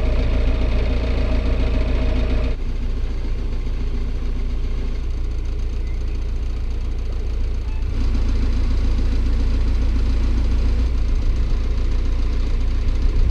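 A narrowboat's engine running steadily while cruising. Its tone changes abruptly about two and a half seconds in and again about eight seconds in.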